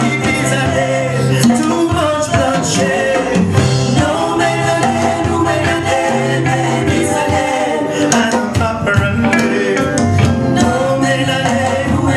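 Live band music with a sung vocal over a steady, repeating bass line.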